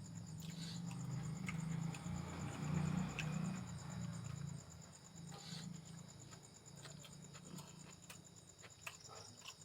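Close-up eating sounds: chewing and smacking with many small mouth clicks, heaviest in the first few seconds. A steady high cricket chirr runs behind it.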